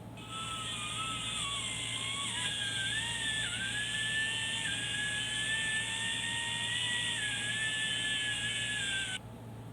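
Electric angle grinder running for about nine seconds, with a high whine that wavers and dips in pitch, starting and stopping abruptly.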